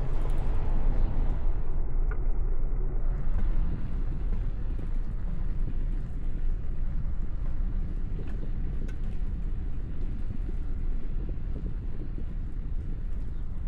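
Steady low rumble of a city bicycle ride: wind buffeting the microphone mixed with road and traffic noise, with a few faint ticks.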